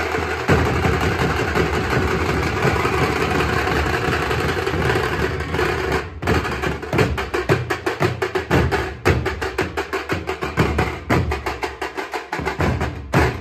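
Tasha drum ensemble playing loudly. It starts with a dense, continuous roll, breaks off briefly about six seconds in, then moves into a fast rhythm of sharp stick strokes.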